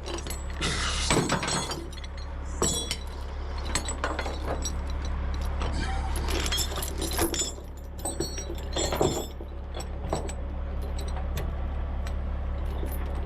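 Steel tie-down chains being handled, the links clinking and rattling in irregular bursts over a steady low hum.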